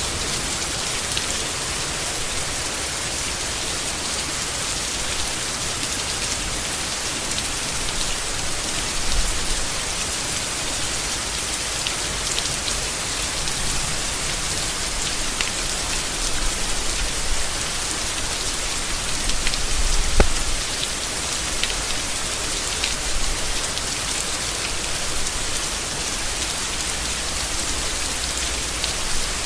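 Steady rain falling on leaves, an even hiss with scattered sharper drop hits. One short, louder knock comes about two-thirds of the way through.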